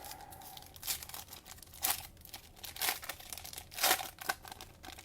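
Cellophane wrapper of a Mosaic cello pack crinkling and tearing as the pack is opened, in sharp crackles about once a second.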